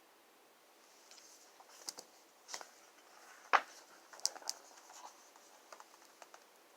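Picture book's paper pages being handled: a few short rustles and taps, the loudest about three and a half seconds in.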